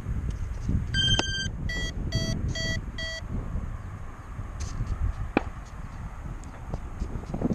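Electronic beeps from an RC plane's speed controller as a battery is connected: one longer tone, then four short, evenly spaced beeps, the pattern an ESC uses to report a four-cell (4S) pack. Wind rumble on the microphone underneath.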